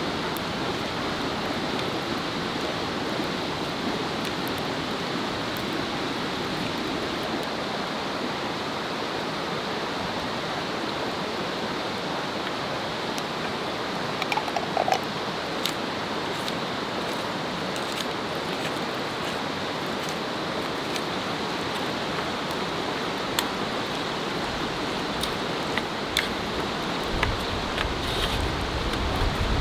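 Steady rushing water noise, with a few faint clicks in the second half.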